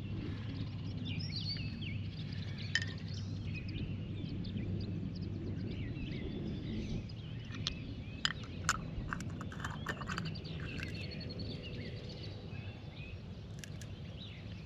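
Birds chirping and calling over a steady low background rumble, with a few sharp clicks, most of them clustered about eight to ten seconds in, from small gear being handled.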